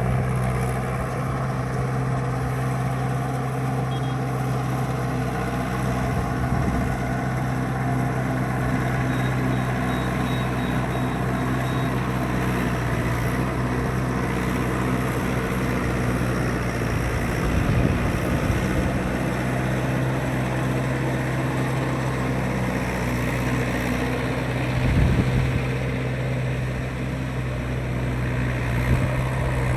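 Mahindra 585 tractor's diesel engine running at a steady speed, with two brief louder thumps in the second half.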